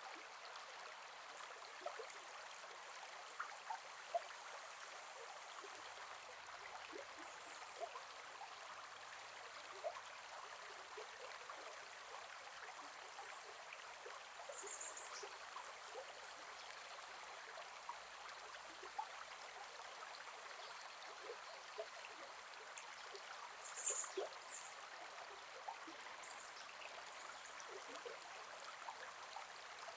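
Gentle forest river flowing, a steady soft rush of water with small scattered plips and gurgles. A few short high-pitched sounds stand out briefly about halfway through and again about two-thirds of the way in.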